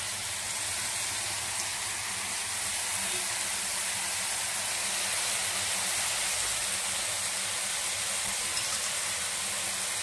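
Chopped vegetables and egg sizzling steadily in hot oil in a wok.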